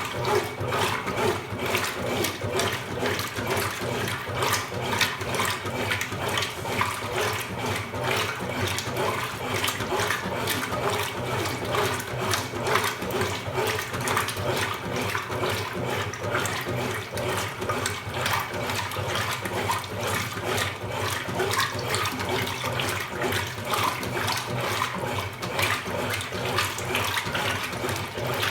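Consul Super Cargo CWL08C top-loading washing machine running, with water swishing and splashing steadily in the tub over a low motor hum.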